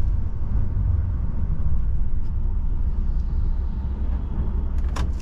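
DAF truck on the move, heard from inside the cab: a steady low rumble of the diesel engine and road noise, with a single sharp click near the end.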